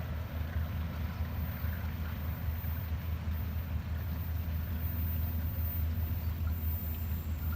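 Train running by with a steady low rumble.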